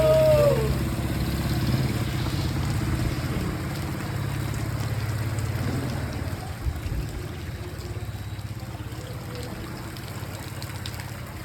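A vehicle engine running steadily at low revs amid rain and running water, fading slowly. A brief wavering high call in the first second.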